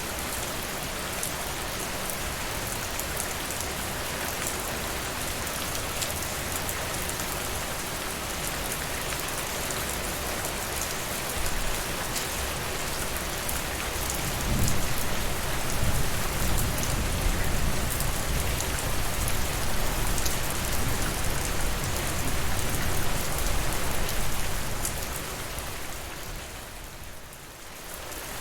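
Steady rain falling, an even hiss peppered with fine drop ticks. About halfway through a low rumble swells up under it, then fades away near the end.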